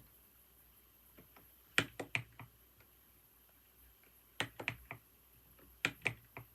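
Computer keyboard typing: three short bursts of a few sharp keystrokes each, with pauses between.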